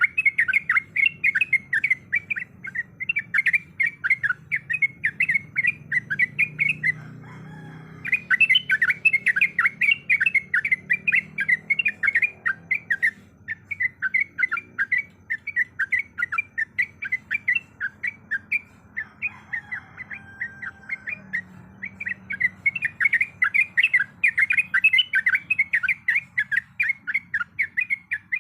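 Yellow-vented bulbul singing a long, fast run of sharp chattering notes, about four to five a second. The run breaks off for about a second about seven seconds in and goes softer for a stretch in the middle before picking up again.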